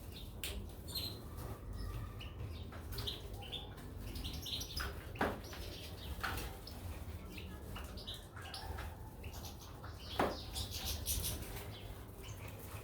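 Caged goldfinches and canaries chirping in short, scattered calls, with wing flutters and small clicks, and two louder sharp clicks about five and ten seconds in; a steady low hum runs underneath.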